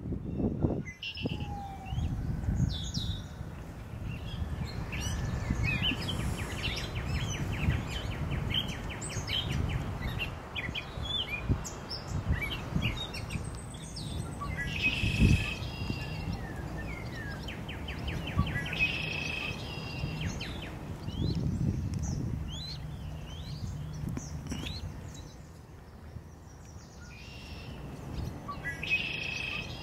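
Small birds chirping, with a few fast trills, over a steady low rumble, and a single thump about halfway through.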